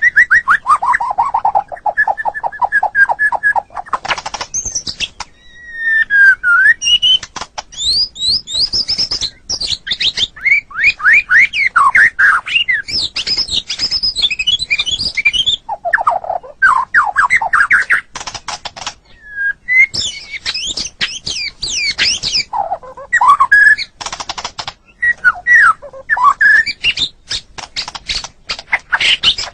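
White-rumped shama (murai batu) singing a long, varied song. It mixes clear whistled phrases, rapid series of falling and repeated notes, and dry clicking chatter, with short pauses between phrases.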